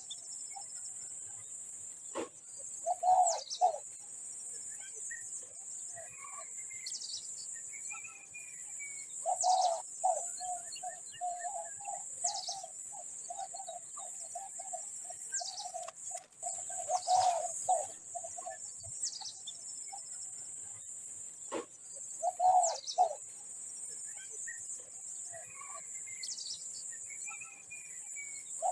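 Birds calling: short high whistles sweeping downward, repeated every few seconds, and lower rapidly pulsed calls in runs, one lasting several seconds, over a steady high-pitched hiss.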